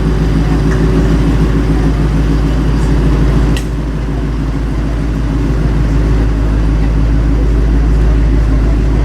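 Car engine idling steadily and loudly close by, with a deep even rumble.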